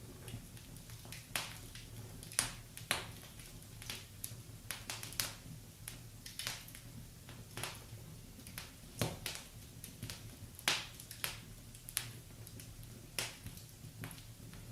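Wood fire crackling in a fireplace: irregular sharp pops and snaps, several a second and of varying strength, over a low steady background.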